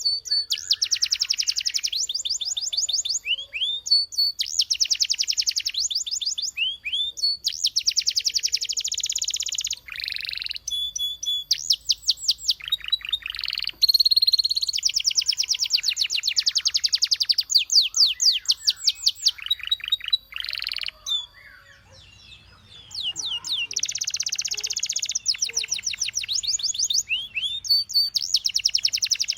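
Canary singing: long, fast trills of rapidly repeated high notes, one run after another, with a short pause about three quarters of the way through before the song resumes.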